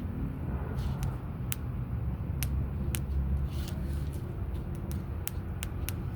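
Bonfire of sticks crackling, with sharp pops of burning wood every second or so over a steady low rumble.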